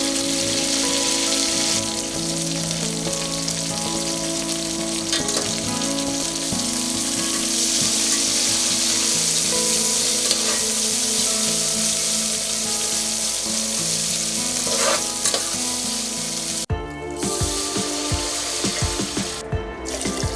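Food frying in hot oil in a pan: a loud, steady sizzle that cuts off abruptly a few seconds before the end.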